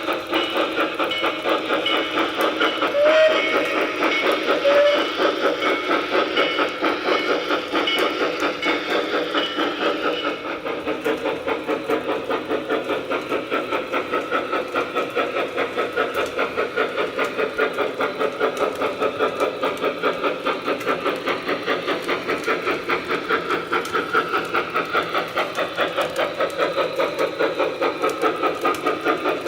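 Lionel O-gauge model train running on its track, a steady mechanical sound pulsing at a fast, even beat.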